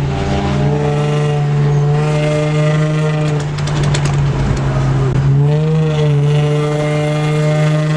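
Car engine droning at a steady speed, easing off about three seconds in and picking back up a couple of seconds later, with a quick run of clicks as it eases off.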